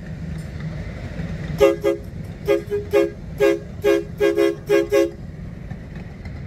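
Train horn sounding a rapid run of about a dozen short toots, over a steady low rumble.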